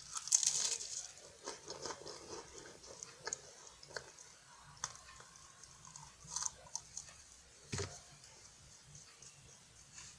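Chewing and crunching of a flaky French Pie pastry biscuit, with scattered crisp crackles and clicks. A denser crackly burst comes about half a second in.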